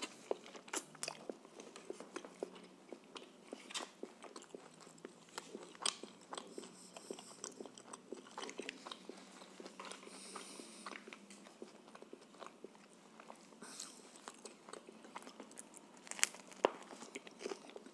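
Close-up eating sounds: a man chewing and biting into a shawarma, with wet mouth clicks and smacks. Around the middle, sauce is squeezed from a soft plastic pouch onto the wrap, with a short hiss.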